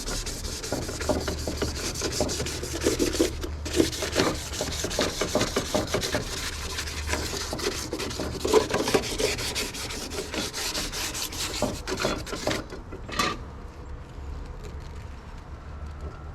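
Sandpaper rubbed by hand over the painted metal of a Nissan 350Z engine bay, fine 1000-grit paper in quick back-and-forth rasping strokes. The sanding stops about three quarters of the way through, followed by a single knock.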